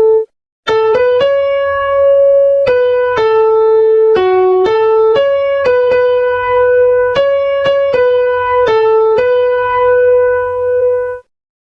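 A single song melody played note by note on an electric-piano keyboard tone, as a guide for singing the tune. Each note is held cleanly, with no chords under it, and the playing stops abruptly just before the end.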